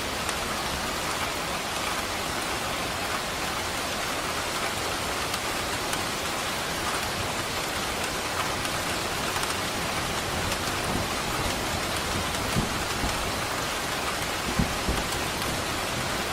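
Steady heavy rain falling on a surface, with a few faint low rumbles of distant thunder near the end.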